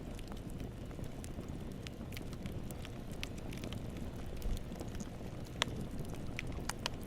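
Campfire burning: a steady low rumble of the flames with irregular sharp crackles and pops of the wood, one louder pop a little over halfway through.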